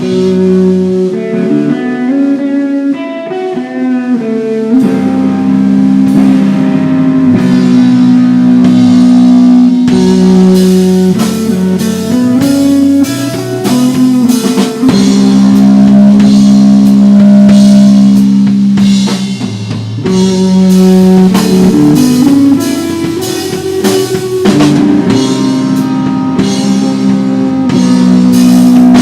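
Live rock band playing: guitar holding sustained, ringing notes over a drum kit. The drums come in about five seconds in.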